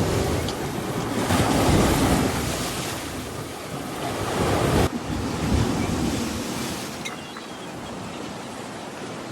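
Sea waves washing onto the shore, with wind buffeting the microphone. The surf swells twice, then drops abruptly about five seconds in and continues more softly.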